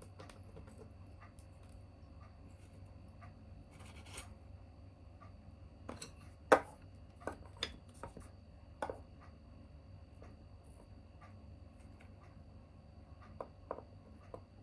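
Small wood fire in a tabletop fire pit crackling, with scattered sharp pops, the loudest about halfway through, and a brief hiss near the start.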